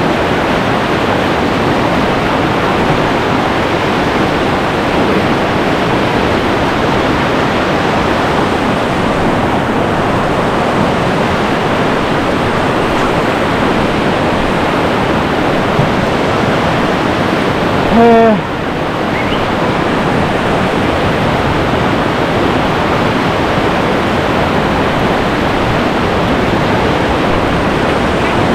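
Whitewater of a river rapid rushing steadily and loudly. About two-thirds of the way through, a single brief shout rises above it.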